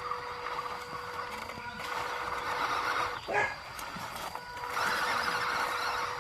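Electric motor and gearbox of an RC crawler truck whining with a steady tone while it drives, easing off briefly a few times, with a short falling squeal about three seconds in.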